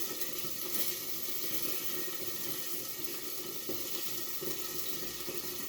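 Bratwurst sizzling steadily in a frying pan, the fat spitting and crackling as the sausages fry.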